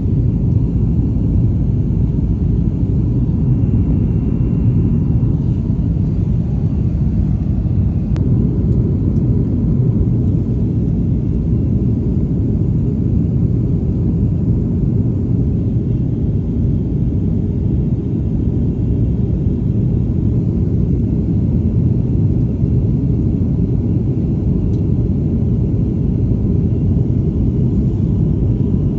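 Airliner cabin noise: a steady low roar of engines and rushing air heard from inside the passenger cabin, with a faint thin whine above it.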